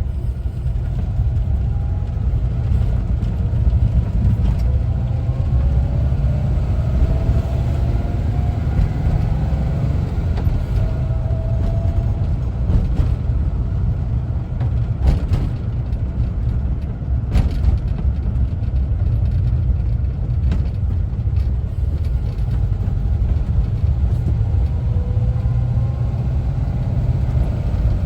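Air-cooled flat-four engine of a 1974 Volkswagen Westfalia camper bus running under way with a steady low rumble. Its pitch climbs twice as the bus accelerates, once through the first part and again near the end. A couple of sharp clicks or knocks come about halfway through.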